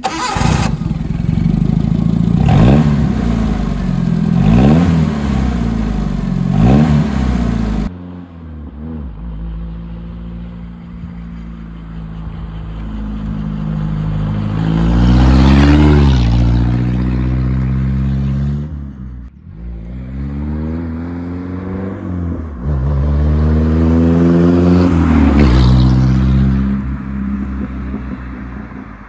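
Nissan Sunny Truck's 1.2-litre four-cylinder engine revved in three short blips, then, after a cut, running under way with the engine pitch climbing and falling away twice.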